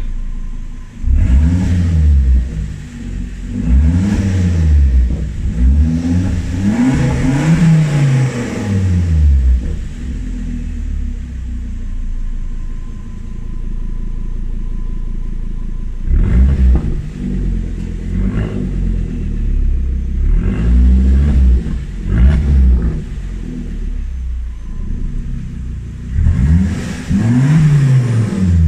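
Volvo S60 2.0T turbocharged inline-five engine revved repeatedly through an exhaust fitted with an electric cut-out valve: short rev blips that rise and fall back to idle, one longer rev about seven seconds in, and a steady idle in the middle before several more blips.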